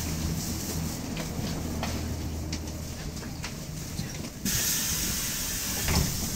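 Inside a BKM-213 articulated trolleybus: a steady low electrical hum with faint clicks, then, about four and a half seconds in, a sudden loud hiss of compressed air from the bus's pneumatic system that carries on to the end.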